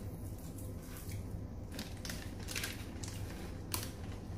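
Crispy roasted seaweed sheets being bitten and chewed, about five short, sharp crunches at uneven intervals.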